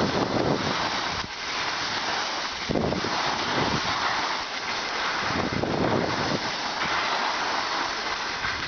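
Wind buffeting the microphone: a loud, gusting rush that rises and falls unevenly.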